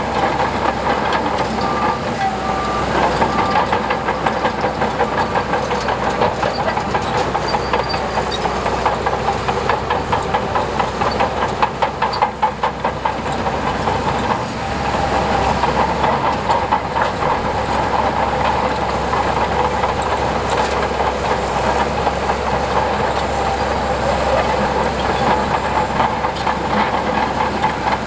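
Heavy tracked earthmoving machine's diesel engine running steadily, with a fast clatter of steel crawler tracks that is densest about halfway through.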